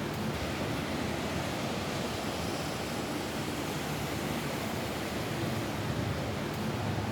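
Steady rain falling on a roof, an even, unbroken rushing hiss.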